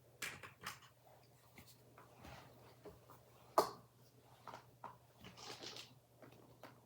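Small plastic toy pieces clicking and tapping as they are handled and set into a plastic building-block truck, with one sharper click about halfway through and a soft rustle near the end.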